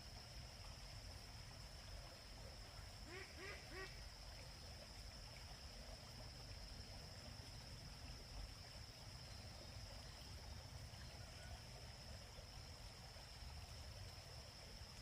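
Three short quacking calls in quick succession about three seconds in, over a steady high-pitched insect drone and a low rumble.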